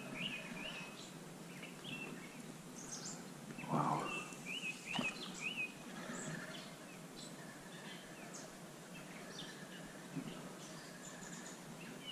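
Outdoor ambience with a steady faint hiss, and a small bird singing short repeated chirps in several bursts. Two brief louder rustling knocks come about four and five seconds in.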